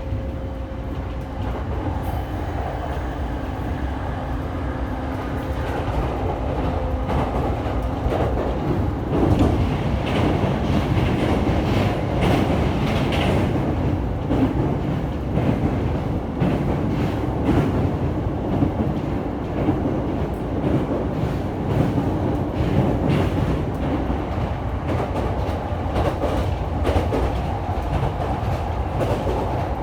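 Electric commuter train running at speed, heard from inside a passenger car: a steady rumble of wheels on rail with clickety-clack from the rail joints. A steady motor tone over the first few seconds fades out about eight seconds in.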